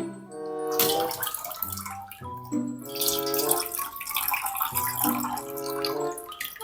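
Running water splashing from a tap as toy figures are washed, starting about a second in and stopping near the end. Melodic background music plays throughout.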